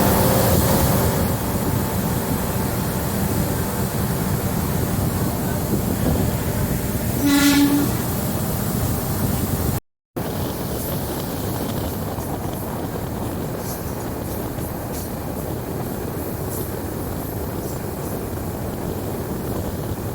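Diesel multiple-unit train running, with steady rail and engine noise and one short horn blast about seven seconds in. The sound drops out briefly near the middle, then resumes as steadier, quieter running noise with light clicks from the track.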